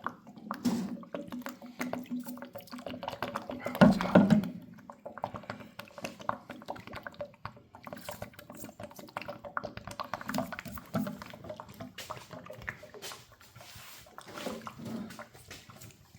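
Metal parts knocking and clinking as they are handled in a citric acid rust-remover bath, with liquid dripping and splashing. A short pitched sound about four seconds in is the loudest moment.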